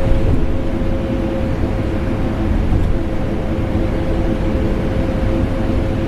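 Steady drone of a vacuum cleaner motor mixed with an air conditioner's hum, unchanging throughout, with a steady tone running through the rushing noise.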